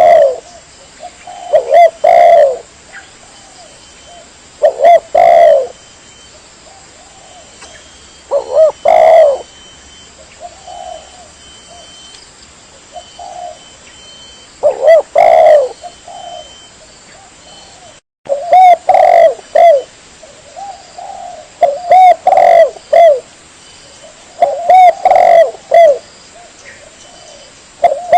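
Spotted dove cooing: a phrase of several coos every few seconds, with fainter coos in between.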